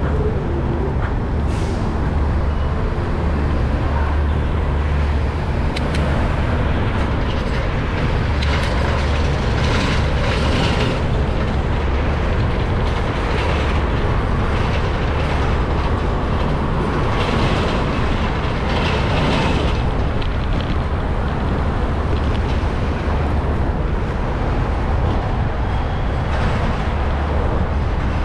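Steady city street traffic noise with a continuous low rumble, heard from a moving bicycle.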